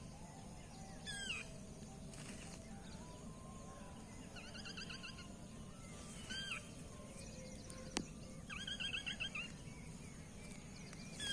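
Faint bird calls: short runs of quick, high, down-slurred chirps repeated several times, over a faint wavering hum, with one sharp click about eight seconds in.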